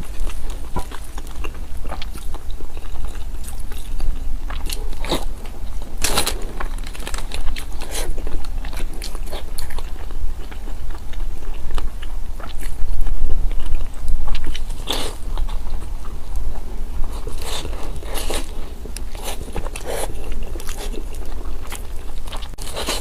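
A person eating close to the microphone: irregular crunchy bites and chewing, with a few louder crunches scattered through.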